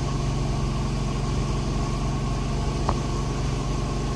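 A steady low mechanical hum, like an idling engine or running motor, with a faint short click about three seconds in.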